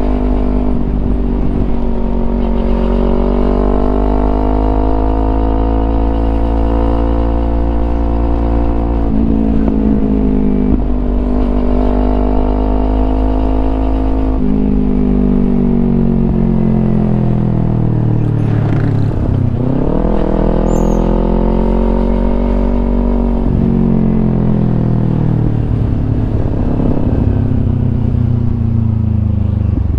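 Kawasaki Ninja 250 FI parallel-twin engine through a Yoshimura aftermarket exhaust, its revs climbing and dropping back several times as through gear changes. Near the middle the revs fall sharply and then pick up again.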